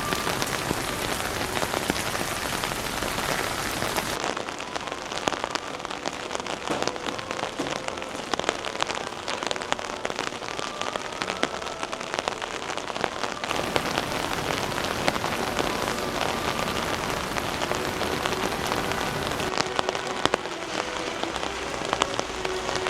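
Steady rain falling, with a dense patter of many sharp individual drop hits close by.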